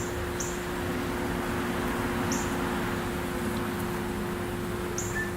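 Steady outdoor hum with a constant low tone, and a few short high bird chirps scattered through it.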